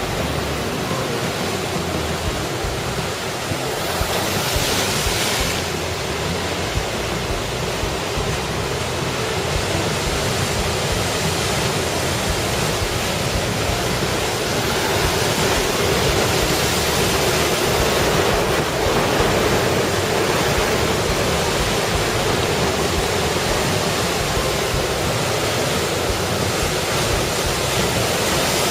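Heavy typhoon-driven surf breaking continuously on the coast, with strong wind. There is a short louder hiss about five seconds in, and the surf grows a little louder from about halfway through.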